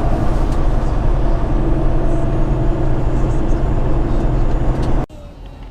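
Semi truck's diesel engine and road noise heard inside the cab at cruising speed, a steady low drone. It cuts off suddenly about five seconds in.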